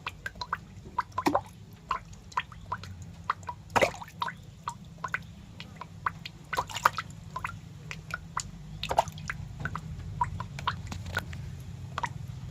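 Irregular wet clicks and drips, a few a second, close to the microphone, over a steady low hum.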